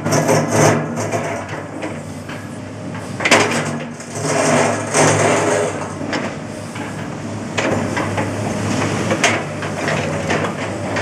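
Komatsu PC210 hydraulic excavator's diesel engine running under load while its bucket scrapes at and breaks up concrete paving slabs. Repeated spells of crunching and grating sound over the steady engine note: one at the start, a longer one from about three seconds in, and shorter ones later.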